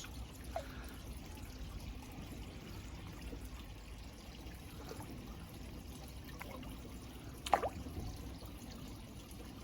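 Water trickling and pouring steadily into a garden pond. A brief falling chirp about seven and a half seconds in is the loudest moment.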